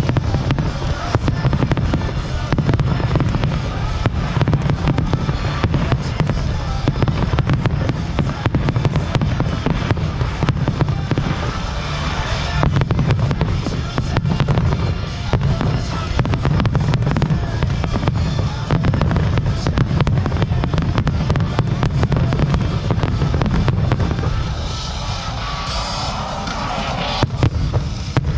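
Fireworks display: a dense, continuous barrage of bangs and crackles over a deep rumble, with music playing along.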